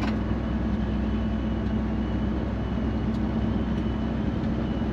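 Semi truck driving, heard inside the cab: a steady engine drone with an even hum and road noise underneath.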